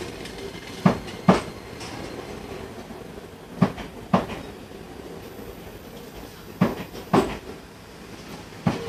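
Enoshima Electric Railway 1000 series train running, heard from inside the car. The wheels clack over rail joints in pairs about half a second apart, one pair roughly every three seconds, over a steady running rumble.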